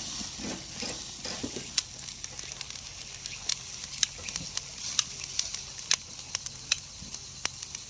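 Black pork belly and neck sizzling on a grill over a wood and charcoal fire: a steady high hiss with many sharp pops of spitting fat.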